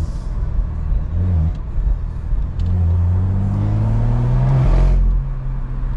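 BMW M340i's turbocharged B58 inline-six under acceleration, heard from inside the car: the engine note climbs steadily from about two and a half seconds in, then drops back off throttle about five seconds in.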